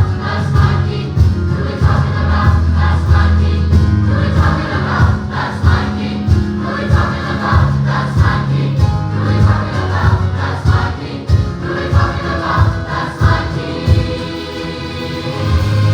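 Gospel choir singing a worship song with band accompaniment: sustained bass notes under the voices and a steady drum beat.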